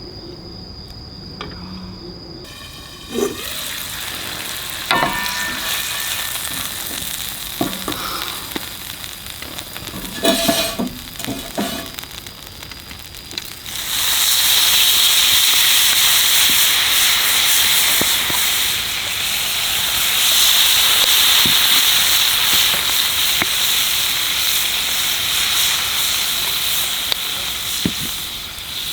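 Steak sizzling as it sears over a campfire. The sizzle starts suddenly about halfway through and stays loud and steady, after a few short clinks and knocks from the cooking gear.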